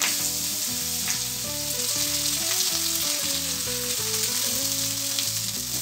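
Shredded cabbage dropping into hot oil in a stainless steel wok, which sets off a sudden, loud sizzle that then runs on steadily as the vegetables fry.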